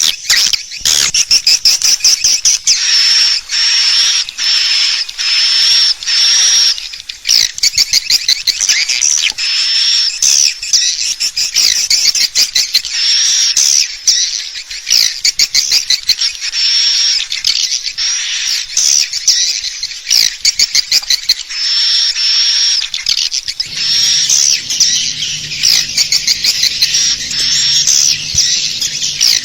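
Swiftlet lure call: a dense, high-pitched twittering of swiftlet chirps and rapid clicking trills, repeating without pause, as played to attract swiftlets to a nesting house. A low steady hum joins in for the last five seconds or so.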